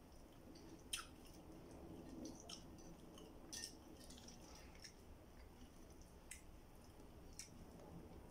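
Faint, wet mouth sounds of a person chewing fried fish: lip smacks and sharp little clicks every second or so, the loudest about a second in and again about three and a half seconds in.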